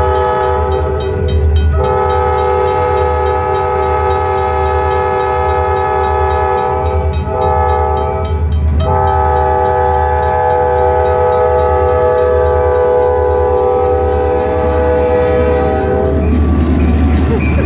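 Diesel freight locomotive's multi-chime air horn sounding the grade-crossing signal (long, long, short, long) over the low rumble of the passing train. The horn cuts off near the end, leaving the rumble of the train.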